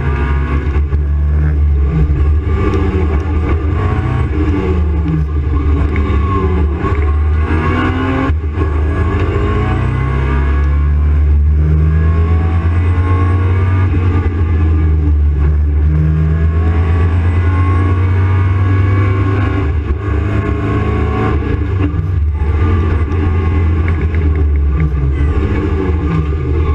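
Opel Kadett C race car's engine revving hard from inside its stripped cabin, its pitch climbing and dropping again and again as it accelerates, lifts off and shifts through the slalom. It holds a steadier, higher-revving run through the middle.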